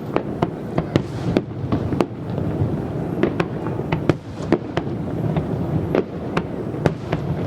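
Fireworks display: an irregular run of sharp bangs and crackles, several a second, over a continuous low rumble of shells going off.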